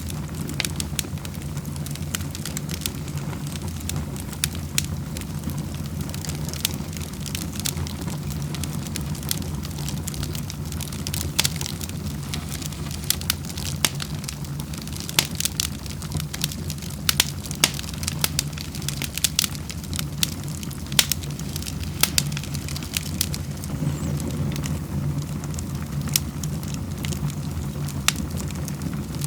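Wood burning in a fireplace, crackling with irregular sharp pops over a steady low rumble.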